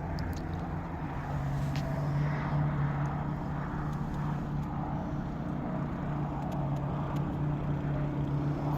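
Steady, even hum of an idling engine, with a few faint clicks over it.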